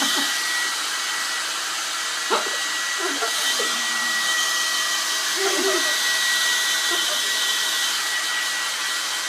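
Hair dryer blowing steadily: an even rushing hiss with a constant high whine. A single sharp knock comes about two seconds in.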